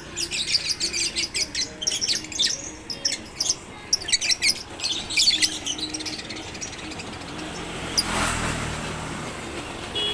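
Lovebirds chirping in rapid, high twittering runs, thick for about the first five seconds and then thinning, with a short noisy swell about eight seconds in.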